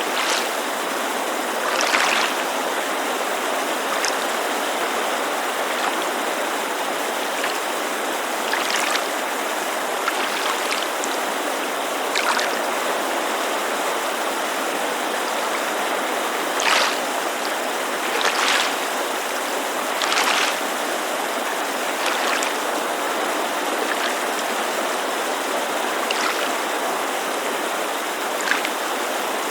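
Steady rushing of a mountain creek, with brief splashes of water lapping against a lake shore at irregular intervals every few seconds.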